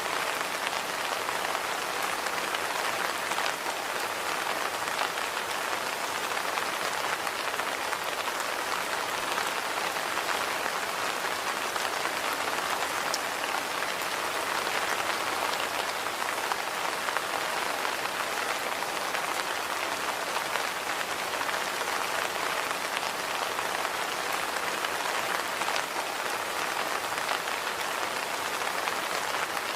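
Steady rain falling on a surface, an even hiss with the patter of drops.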